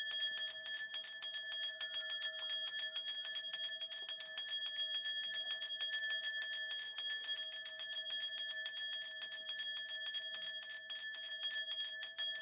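A Korean shaman's cluster of ritual bells (bangul) is shaken continuously in a fast, even rhythm, giving a steady jangling ring. This bell-shaking is part of a shamanic divination.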